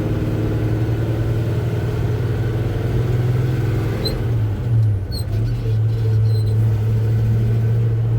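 1984 Chevy C10's 350 V8 engine running steadily as the truck drives along. About halfway through, the engine pitch dips briefly and then comes back up.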